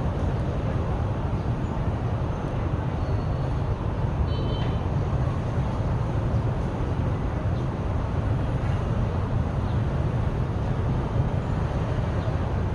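Steady low rumbling noise, with a few faint high chirps about four seconds in.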